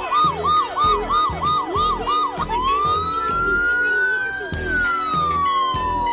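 Kids' electric toy bike's built-in speaker playing an electronic siren sound: a fast yelping chirp about four times a second, switching about two and a half seconds in to one long wail that rises and then slowly falls, with a low beat underneath.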